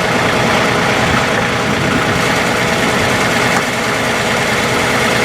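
Three-cylinder turbocharged Yanmar diesel engine of a John Deere 3046R compact tractor running steadily.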